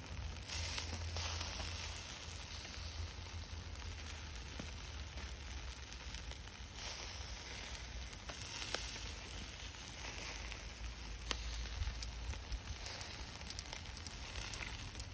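Food sizzling in a pan over a flame, a steady hiss with scattered small pops.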